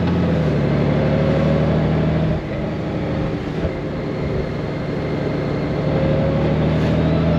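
Honda Gold Wing motorcycle's flat-six engine running under way, with wind and road noise. About two and a half seconds in the engine note drops and fades back, then climbs slowly in pitch again near the end as the bike accelerates.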